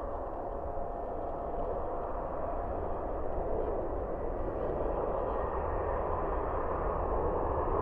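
CFM56 jet engines of a Boeing 737 BBJ on approach, a steady rushing noise that slowly grows louder as the aircraft nears.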